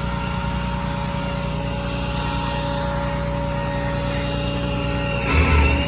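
A vehicle engine running steadily, with a low rumble and a few steady whining tones, growing louder in low surges near the end.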